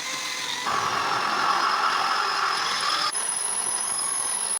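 Stick welding arc crackling and hissing, striking about a second in and breaking off sharply about three seconds in, over a steady background hum.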